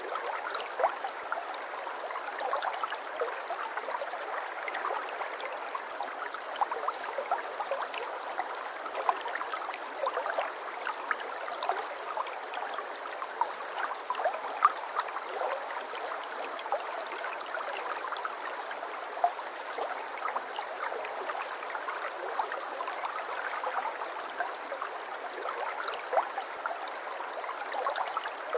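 Shallow brook babbling over stones: a steady splashing and gurgling with many small, quick drips and plops throughout.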